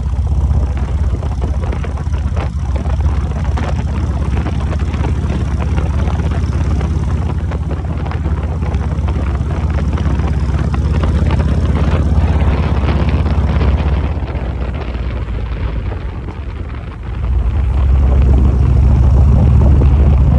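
BMW R 1250 GS adventure motorcycle on the move: heavy wind rush buffeting the microphone over the running engine. It eases a little for a few seconds past the middle, then grows louder again near the end.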